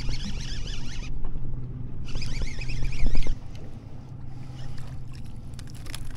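A boat's engine running with a low steady hum under wind and water noise. A high warbling sound comes twice in the first half, and the sound gets quieter a little past three seconds in.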